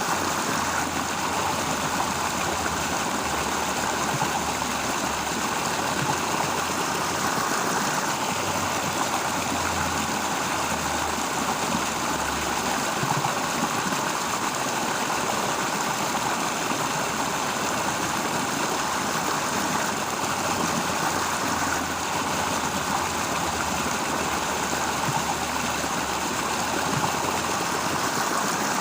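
Steady outdoor ambience: an even rushing hiss with a low hum underneath that swells and fades.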